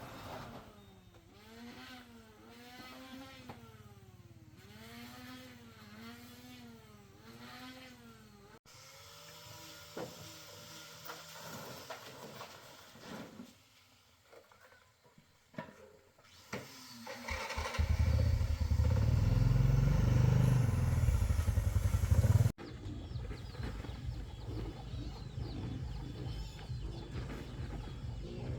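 An engine runs loudly with a pulsing beat for about five seconds and stops abruptly, then a quieter engine rumble follows. Before it there is a softer sound whose pitch repeatedly rises and falls.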